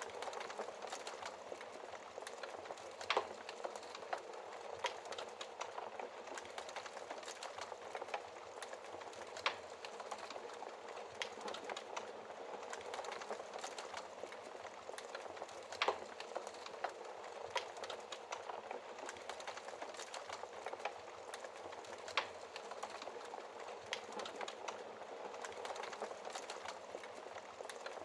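Wood fire crackling in a fireplace: a steady bed of dense small crackles, with a louder pop every several seconds.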